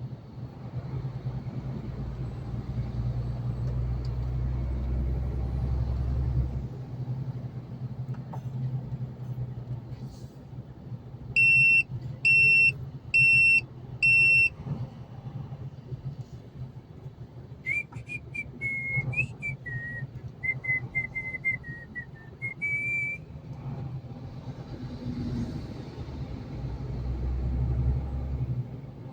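Steady low rumble of a truck's engine and road noise from inside the cab. About halfway through come four short, evenly spaced electronic beeps, the loudest sound, then a few seconds of whistling that wavers in pitch.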